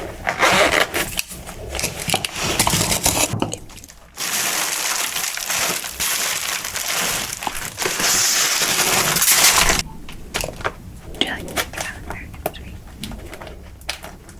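Recorded stomping of shoes crushing packaging materials: dense crackling and crunching, then a loud, continuous crushing stretch from about four seconds in that cuts off abruptly near ten seconds, followed by sparser crackles.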